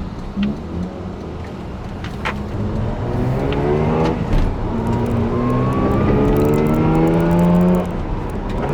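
Mazda RX-8's two-rotor rotary engine accelerating hard, its pitch climbing, breaking off about four seconds in and climbing again before easing off near the end. This is an engine that a rotary shop judged must be replaced because of hot-start trouble.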